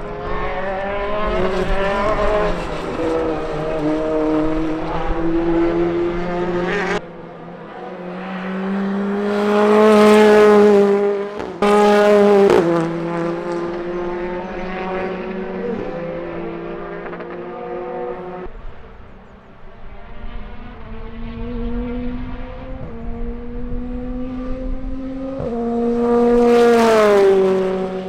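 BTCC Toyota Corolla GR Sport touring cars running at speed on track, engine notes rising and falling through the gears. Cars pass close by, loudest about ten, twelve and twenty-seven seconds in, and the engine note drops off sharply about seven seconds in.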